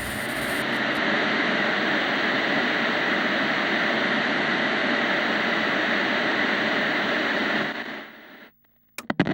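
Steady, even hissing rush of noise that starts abruptly and fades out about eight seconds in, followed by a few sharp clicks near the end.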